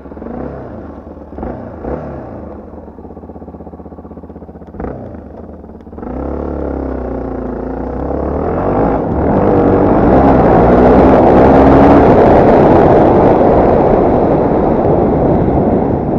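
Yamaha TT250R's single-cylinder four-stroke engine idling with a few short throttle blips, then revved up about six seconds in and climbing to high revs, running loud and steady before easing off slightly near the end.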